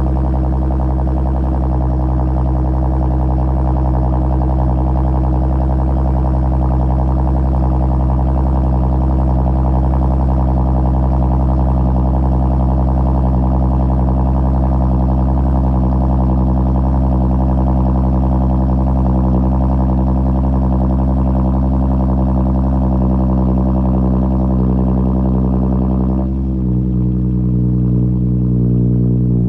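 Supercharged 3.0 TFSI V6 of an Audi C7 A6 idling steadily after a cold start, heard through a cat-back exhaust with a Magnaflow muffler, with no revving. About 26 seconds in, the sound softens slightly as the higher part of its tone drops away.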